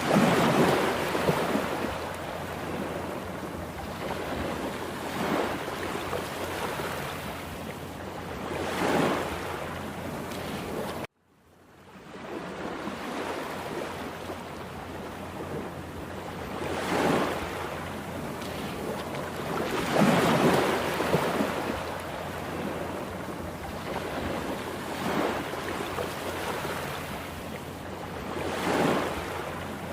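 Heavy Atlantic surf in a rough sea, waves breaking in loud surges every few seconds over a steady wash of water noise. About eleven seconds in the sound cuts out briefly and then fades back in.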